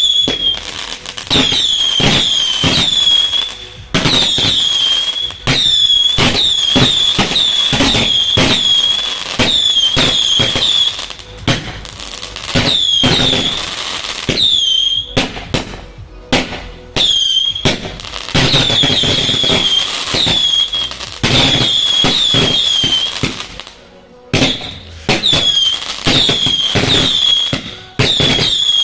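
Fireworks finale barrage: rapid, overlapping bangs mixed with many short whistles, each dropping in pitch before holding, with brief lulls between volleys.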